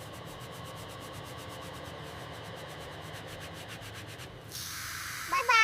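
Steady scrubbing noise made of fast, even rubbing strokes while the muddy toy superbike is cleaned; it stops about four and a half seconds in. Near the end comes a short rising, pitched cry.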